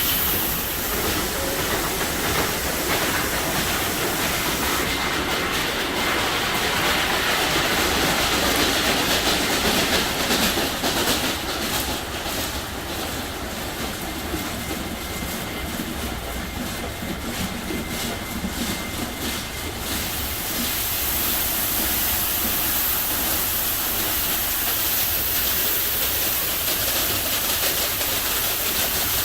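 Belanger FreeStyler automatic car wash running over a car: a loud, steady hiss of water spray and machinery, with a dense rapid spattering from about five to twenty seconds in.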